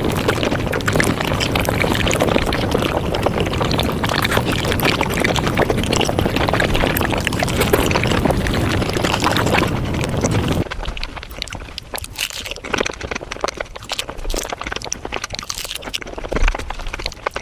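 Eating sounds of Japanese fruit sandwiches sped up five times: a dense, rapid chatter of chewing and squishing. About ten seconds in it cuts to a quieter, sparser run of quick crisp clicks.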